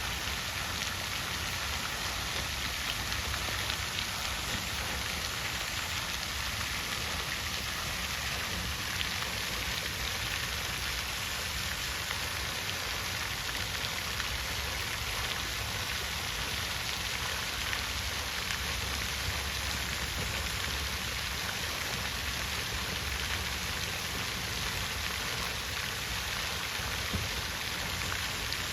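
Water fountain running, with an unbroken, even splashing of falling water.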